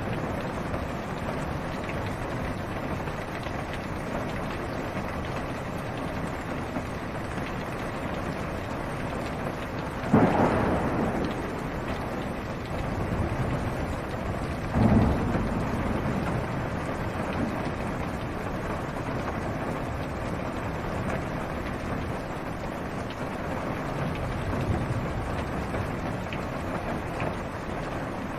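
Steady rain on a car's roof and windshield, heard from inside the car, with two sudden thunderclaps, about ten and fifteen seconds in, each rumbling away over a second or two.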